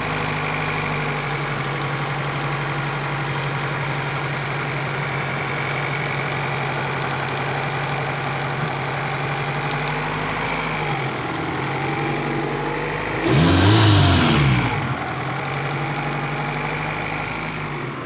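Acura Integra's four-cylinder engine idling steadily, with one short rev about thirteen seconds in that rises and falls back to idle. It is running okay, freshly started after an oil pan gasket replacement.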